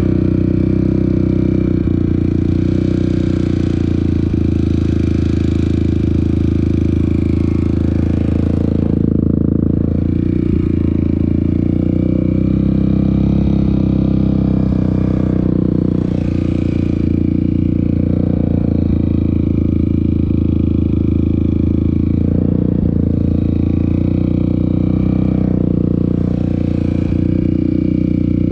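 Off-road vehicle engine running steadily while riding a trail, with a loud low rumble and some rattle and clatter.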